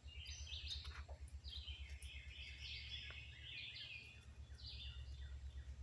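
Faint birds chirping: many short notes, each falling in pitch, over a low steady hum.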